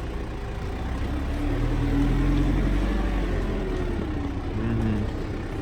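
A vehicle engine running and revving, its note rising about a second and a half in and easing off again.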